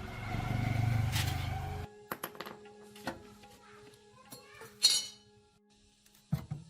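A machine hums steadily for about two seconds and cuts off abruptly. Scattered clicks and clinks of metal parts being handled follow, with one louder clink about two-thirds through and a knock near the end.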